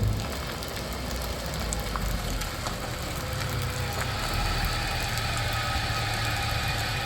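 An engine running steadily at low speed with a low hum.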